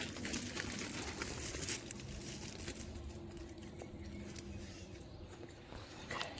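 Light rustling and crackling of plastic bird netting being handled around the snake, busiest in the first two seconds, over a faint steady hum.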